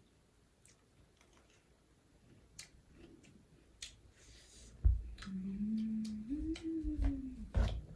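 Close-up chewing of crunchy puffed-rice chatpate, with small sharp clicks. About five seconds in there is a low thump, then a long closed-mouth 'mmm' hum that rises in pitch and then falls.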